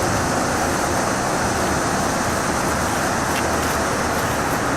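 Heavy rain falling steadily during a severe thunderstorm, an even rushing noise.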